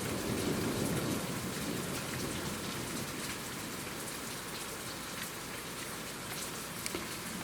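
Steady hail and rain hiss, with scattered sharp ticks from pellets striking. A low thunder rumble fades away over the first second or two.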